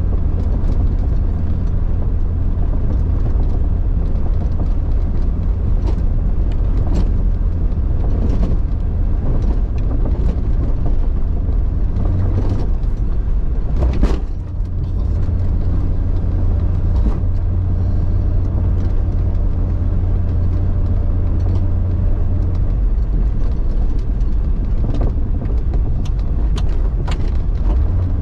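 A 1999 Jeep Cherokee XJ driving off-road over snowy trails: a steady low engine and drivetrain drone with scattered knocks and bumps, and one louder bang about halfway through.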